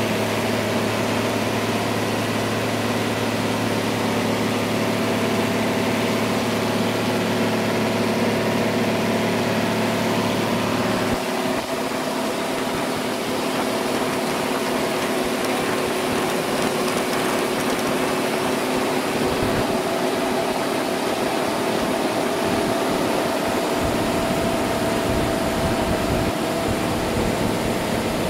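Sawmill machinery running: a steady engine hum with several steady tones over it. About eleven seconds in, the deepest part of the hum drops away while the rest keeps going.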